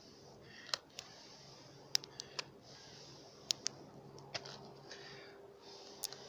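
Wood fire crackling: about nine sharp, irregular pops over a soft hiss.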